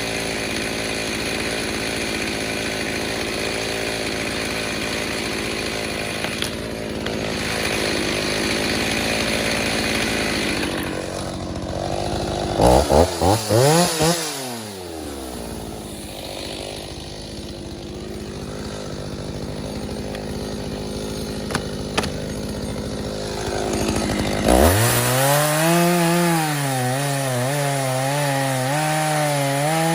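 Stihl 029 two-stroke chainsaw, just rebuilt, running at full throttle, then blipped a few times and dropping back to idle about halfway through. It idles for several seconds, then revs back up near the end, its pitch wavering as it runs under load.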